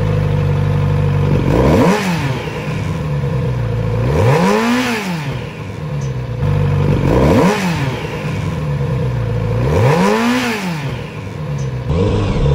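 Kawasaki Z900RS's 948 cc inline-four idling in neutral, then revved four times, each blip climbing in pitch and dropping back to idle.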